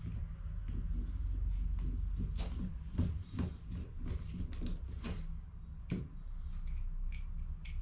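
Irregular small clicks and knocks of hands handling plastic parts of an HP CE285A toner cartridge during refilling, over a steady low hum.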